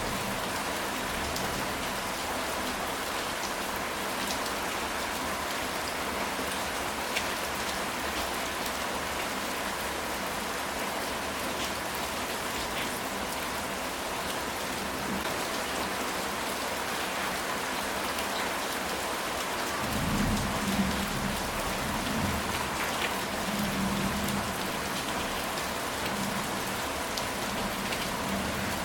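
Steady rain falling on a ceramic tile roof, with fine scattered droplet ticks. Low rolling thunder rumbles in about two-thirds of the way through and fades a few seconds later.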